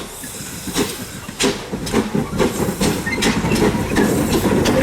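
GWR small prairie tank steam locomotive 5542 on the move, its exhaust chuffs coming quicker and louder over a low rumble of wheels on the rails.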